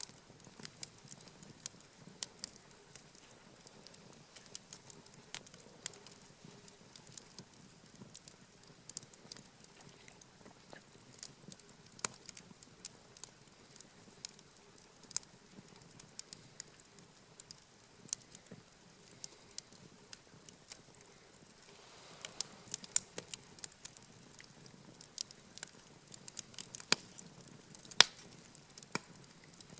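Wood fire crackling, with irregular sharp pops and snaps, busier in the second half.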